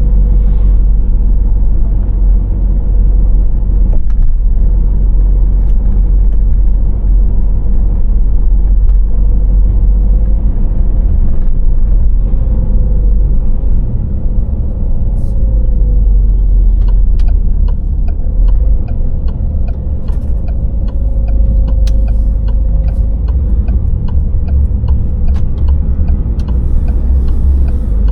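Car driving on a dry road, heard from inside the cabin: a steady, loud low rumble of tyres and engine with a faint steady hum. In the second half, light ticks come in now and then.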